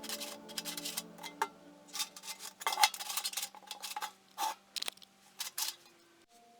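Irregular light metallic clinks and taps from thin sheet-metal can parts and tools being handled, over the last held note of background music fading out about halfway through.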